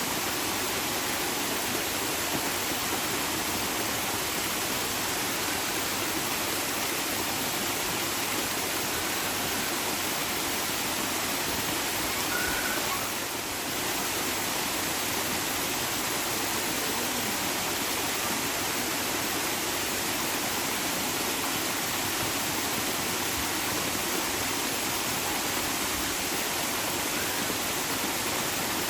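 Water rushing steadily in an even, unbroken wash of noise, with a brief dip in level about halfway through.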